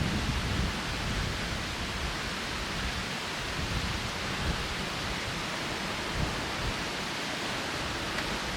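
Strong, gusty wind rushing and buffeting the microphone, with an uneven low rumble under a steady hiss.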